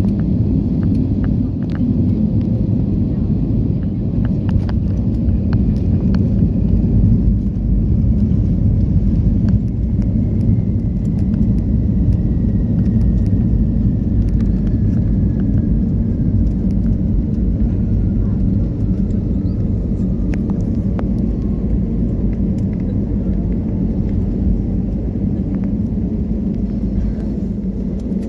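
Cabin noise of an Airbus A320neo rolling on the runway after touchdown: a loud, steady rumble from the undercarriage and engines, with scattered rattling clicks and a faint whine sliding down in pitch over about ten seconds as the aircraft slows.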